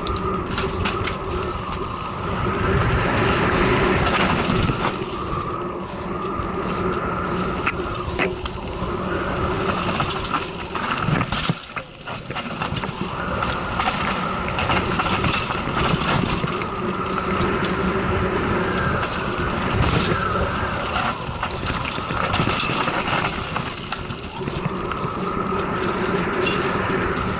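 Mountain bike running down a rough trail: chain, frame and components rattling, with a steady buzzing tone that cuts out and returns every few seconds and frequent sharp knocks from impacts.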